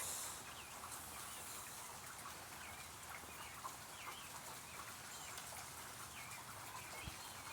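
Steady hiss of falling rain with birds calling over it in many short, repeated chirps.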